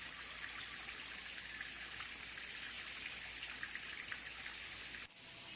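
Shallow creek water flowing and trickling over rocks, a steady splashing hiss with faint fine droplet ticks. A little before the end it cuts off abruptly and resumes slightly quieter.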